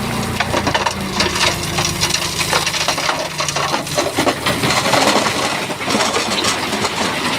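Shantui bulldozer working, with stones clattering and grinding as it pushes them. Its engine tone is steady through the first half and fades about three and a half seconds in, while the knocking of rock on rock goes on throughout.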